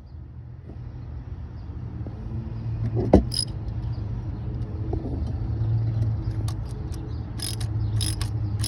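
A low, steady vehicle-engine rumble that grows louder over the first few seconds. A sharp click comes about three seconds in, and a few light metallic clicks from hand tools come near the end, as the new coolant temperature sensor is being fitted.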